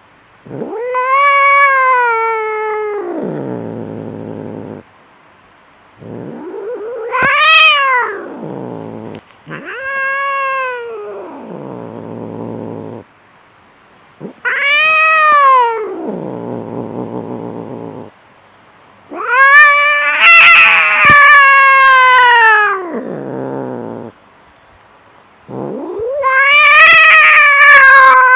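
Cats yowling in a fight: six long, drawn-out wails that rise and then fall in pitch, one after another with short pauses between them. The loudest, harshest cry comes a little past the middle.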